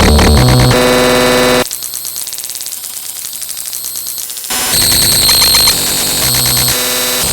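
Harsh electronic noise: loud synthetic buzzing and static that switches abruptly between segments, with a quieter hissing stretch in the middle.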